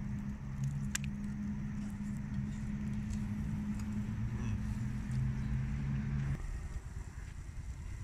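A vehicle engine idling with a steady low hum, which stops suddenly about six seconds in.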